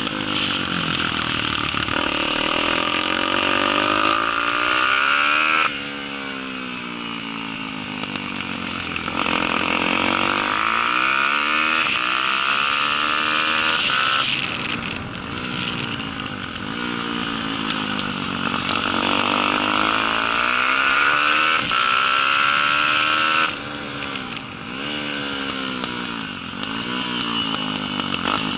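Daytona 190cc four-stroke single-cylinder pit bike engine under race load, its pitch repeatedly climbing and falling as the rider works the throttle. The engine note drops suddenly twice, about six seconds in and again about five seconds before the end.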